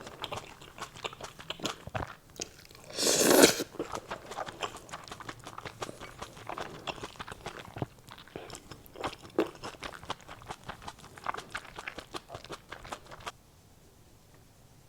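A person chewing and crunching food close to the microphone, a dense run of wet clicks and crackles, with one louder noisy burst about three seconds in. The eating sounds cut off abruptly near the end.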